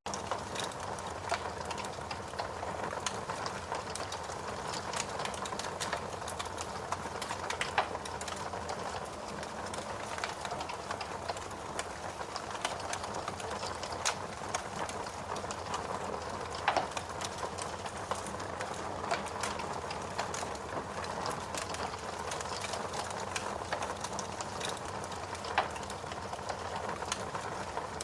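Steady rain mixed with a wood fire crackling in a fireplace: an even hiss with many small crackles and a few louder, sharp pops.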